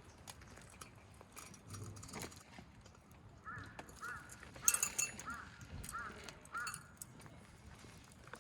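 A bird calling repeatedly outdoors: about seven short, arched calls in quick succession, with a sharp clink of metal or glass partway through.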